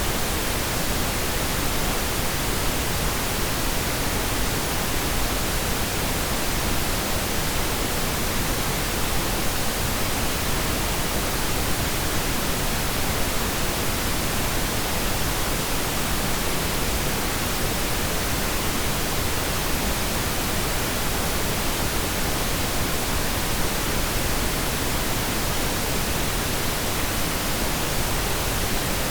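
Steady pink noise: an even, constant hiss that does not change.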